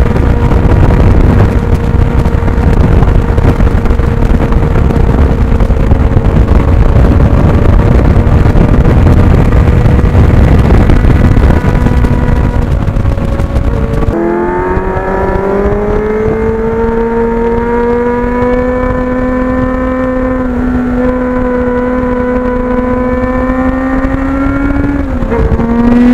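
Motorcycle engine running at road speed under heavy wind rush. About halfway through the wind noise drops away suddenly, leaving the engine note clear and slowly rising in pitch as it accelerates, with a brief dip and recovery near the end.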